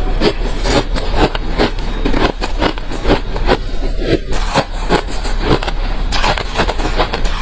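Refrozen crushed ice being bitten and chewed close to the microphone: hard, brittle crunches several times a second, with no let-up.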